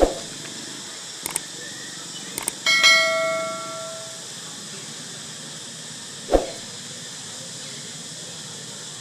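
A metal object struck once, ringing out for about a second and a half before it fades, among a few light clicks and two dull thumps, one at the start and one later.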